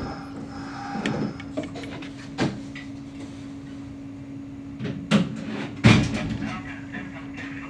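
Steady hum of a stopped Kintetsu electric train's onboard equipment, with a few sharp knocks and clatters, the loudest about five and six seconds in.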